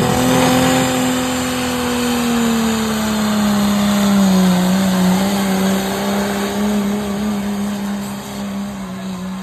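Diesel truck engine running hard at high revs under load on a pull, one steady tone that sags in pitch about three to four seconds in and then holds, with dense mechanical noise over it.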